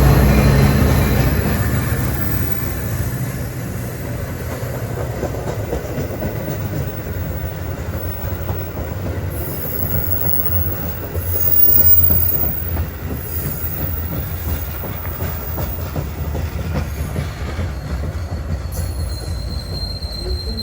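A train rolling past on the rails. It is loudest at the start and settles after a couple of seconds into a steady rumble of cars, with a thin high squeal from the wheels near the end.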